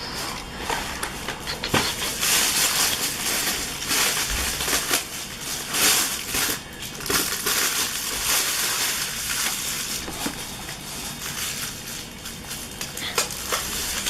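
Continuous crunching and rustling with scattered sharp clicks: toys and their parts being handled and moved about.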